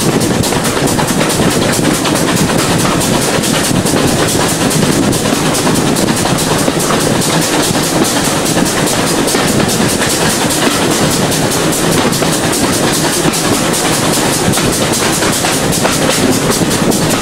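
Steam-hauled passenger train running along the line, heard from an open carriage window: a steady rumble and fast clatter of the wheels on the rails, with air rushing past.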